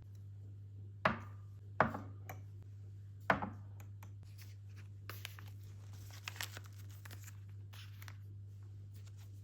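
Three sharp knocks, the first two about a second apart, then soft rustling and crinkling, over a steady low hum.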